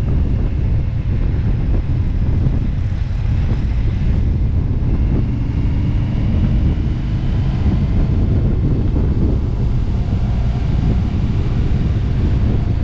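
Motorcycle riding at cruising speed: heavy wind buffeting on the microphone over the steady drone of the engine and road.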